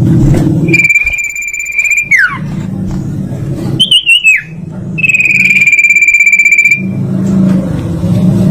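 Songbird singing: two long, fast trills on one high pitch, each lasting a second and a half or more, with a falling whistled note after the first and a short warbled phrase between them, over a steady low hum.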